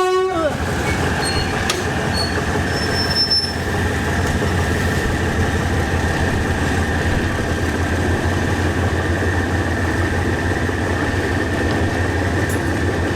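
Diesel train idling steadily at a station platform: a continuous low engine hum with a thin steady whine above it.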